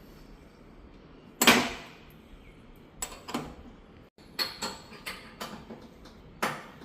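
Irregular sharp knocks and clunks of hard objects being handled. The loudest comes about a second and a half in, followed by a few lighter knocks and a quick cluster in the second half.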